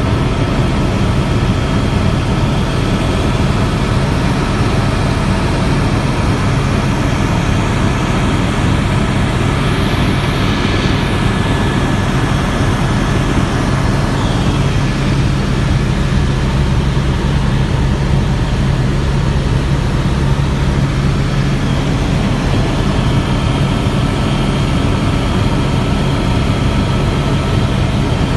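Helicopter in flight: a loud, steady engine and rotor drone with a low hum that does not change.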